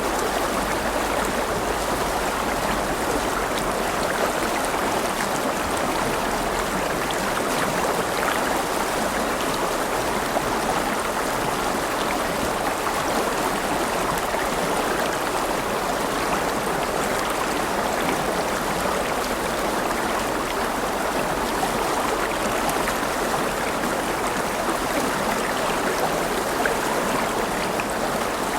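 River water flowing over stones: a steady, continuous rush with a bubbling texture.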